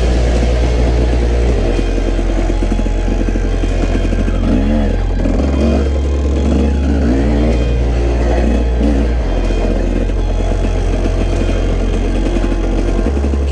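Dirt bike engine revving up and down as it rides a trail, over background music with a deep bass line.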